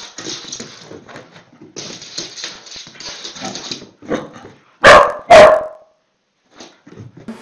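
A small golden dog barking at a lemon held up to it: several seconds of ragged, agitated dog noise, then two loud barks in quick succession about five seconds in.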